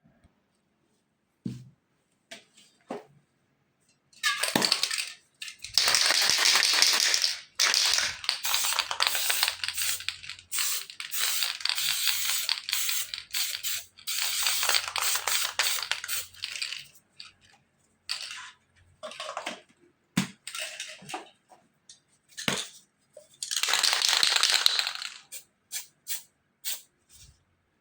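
Aerosol spray paint cans spraying in hissing bursts, one long near-continuous stretch from about four seconds in, then shorter sprays and a longer burst near the end, with clicks and knocks in between.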